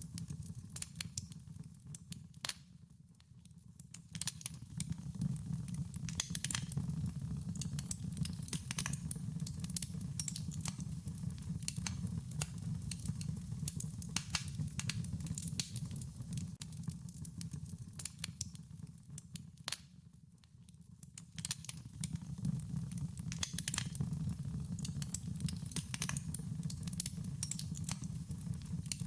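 Wood fire crackling, with frequent sharp pops and snaps over a low steady rumble of the flames, dropping away briefly twice.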